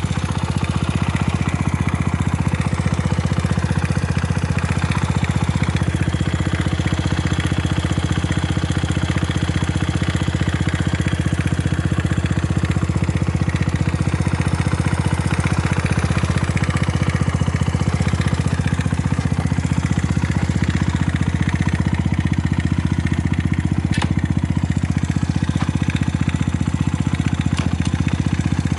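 Honda Ape 50 FI's fuel-injected single-cylinder four-stroke engine idling steadily, running evenly with no abnormal noises.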